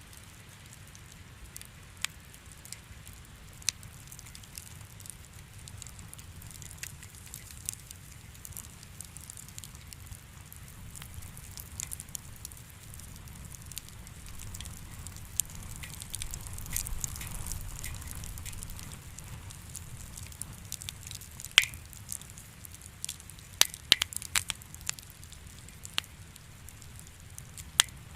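Wood fire crackling, with a low steady rumble of flame under irregular sharp pops and snaps; a cluster of louder pops comes about three quarters of the way through.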